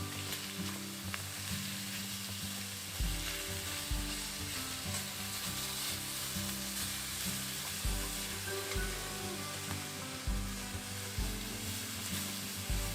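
Food sizzling as it fries in a pan, a steady hiss, under background music with low notes changing about once a second.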